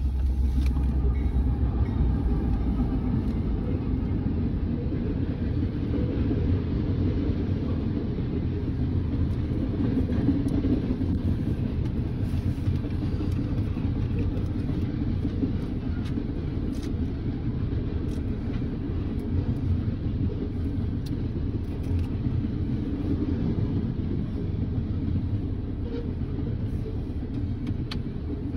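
Freight train of tank cars rolling past: a steady low rumble of steel wheels on rail, heard from inside a car.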